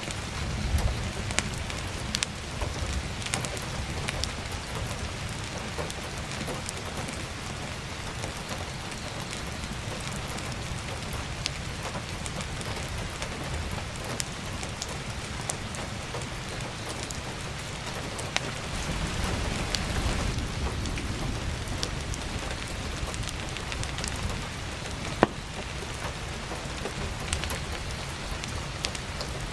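Heavy rain falling steadily, mixed with scattered sharp crackles from burning firewood. A low rumble swells for a few seconds about two-thirds of the way in, and a single loud snap comes near the end.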